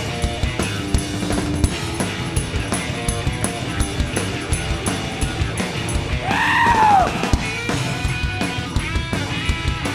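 Live rock band playing an instrumental passage between vocal lines, with a steady drum-kit beat under bass and guitar. About six seconds in, a loud pitched note slides up and falls back down over about a second.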